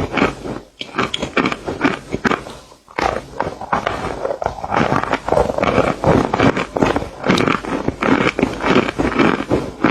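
Close-miked ASMR crunching and biting sounds: a rapid, irregular crackle of crisp material being bitten and chewed, pausing briefly twice near the start.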